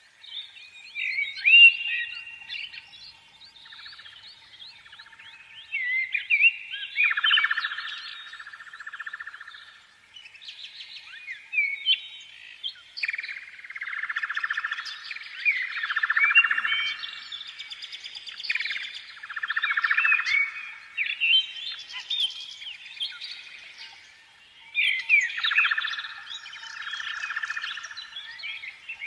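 Small birds chirping and twittering, many overlapping short calls with buzzy trills, in bursts with brief lulls about ten seconds in and again near the end.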